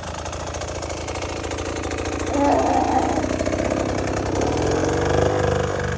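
Dirt bike engine running close by. It grows louder, is revved harder from about two seconds in, and eases off near the end.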